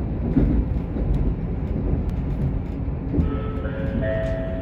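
Diesel train heard from inside the passenger car while running, a steady rumble of wheels and engine. About three seconds in, a held whine joins it and rises in steps.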